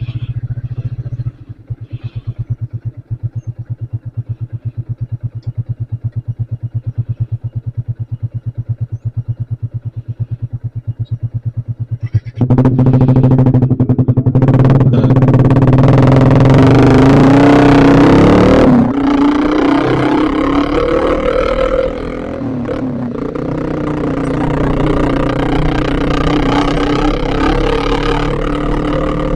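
Yamaha Vixion's single-cylinder four-stroke engine idling with an even, rapid pulse. About twelve seconds in it is revved and the motorcycle pulls away, its pitch rising, dropping at a gear change, then running steadily with wind noise.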